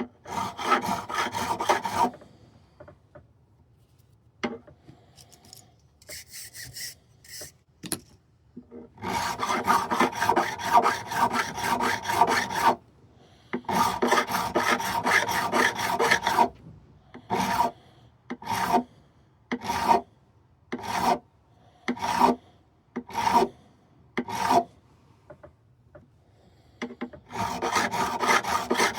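Abrasive levelling strokes rasping across the metal frets of a Martin D16 acoustic guitar. Long strokes of a couple of seconds each come at the start, in the middle and near the end, with a run of short strokes about once a second in between.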